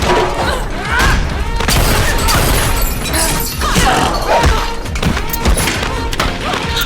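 Film fight-scene soundtrack: action music under a run of hard hits, thuds and bangs.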